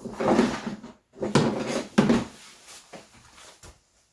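Rasp or file scraping in long strokes, rounding off sharp edges: two strong strokes of about a second each, then lighter, shorter strokes.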